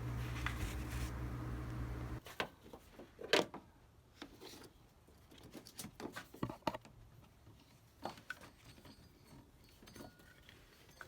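A steady low hum that cuts off abruptly about two seconds in, followed by scattered light clicks and taps of small parts and tools being handled.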